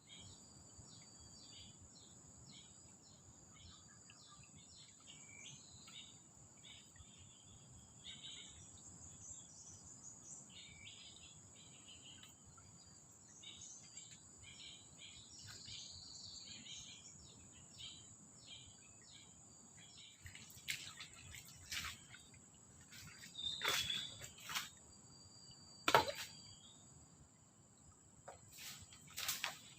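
Forest insects and birds: a steady, high-pitched insect drone under many short chirping calls. From about two-thirds of the way in, several sharp knocks cut in, the loudest near the end.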